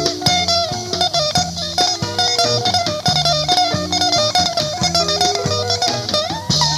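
Instrumental music: a guitar plays a melody with bent notes over a repeating bass line.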